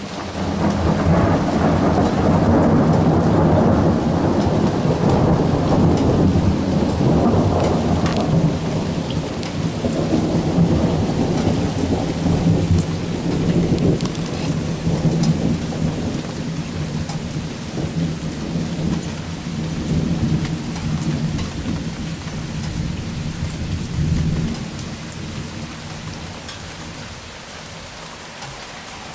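A long rolling peal of thunder that breaks in at once and rumbles on for over twenty seconds before dying away, over steady heavy rain with drops pattering close by.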